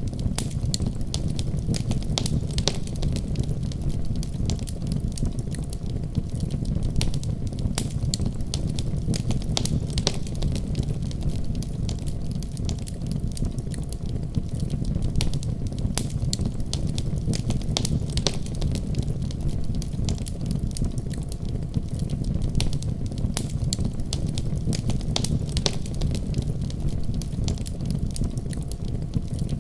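Wood fire crackling, with many sharp irregular pops over a steady low rumble of the flames.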